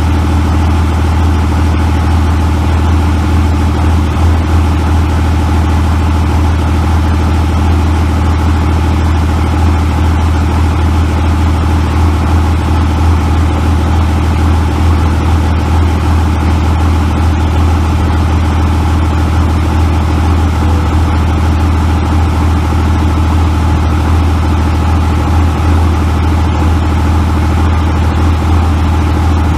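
Second-generation 24-valve Cummins 5.9-litre inline-six turbo diesel, fitted with 84 mm injector lines and 93 mm delivery tubes, idling steadily.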